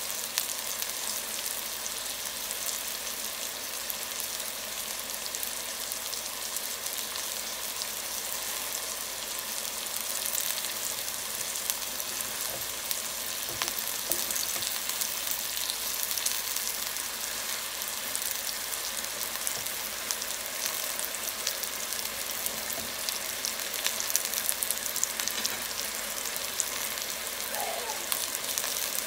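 Food frying in a pan: a steady, dense crackling sizzle with many fine pops.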